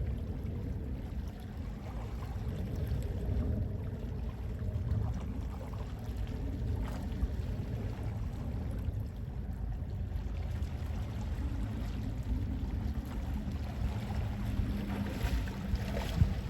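Gentle sea waves washing with sea wind, a steady low rumble of noise. A faint steady hum joins in the last few seconds.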